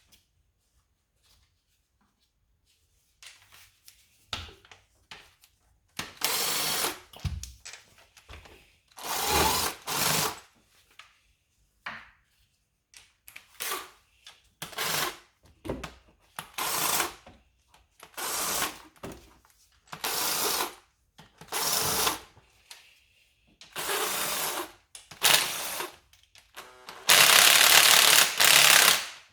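Power tool run in about a dozen short bursts with pauses between them, the last one longer.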